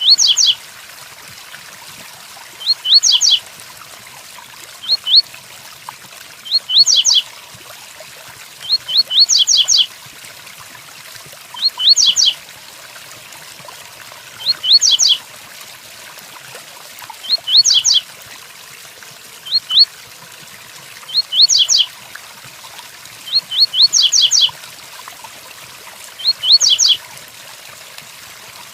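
Double-collared seedeater (coleiro) singing the 'tui-tuí' song: short phrases of quick, sharply rising whistled notes, repeated about every two seconds, over a steady rain sound.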